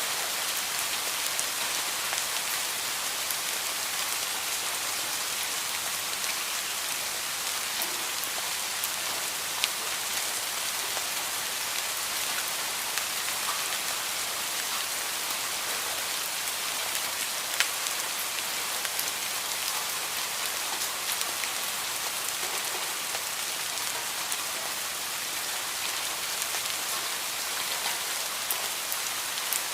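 Heavy rain falling steadily, a dense even hiss with sharper single drop hits standing out now and then.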